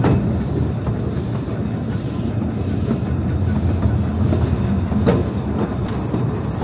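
Narrow-gauge train running past on its track: a steady low rumble, with a sharp click at the start and another about five seconds in.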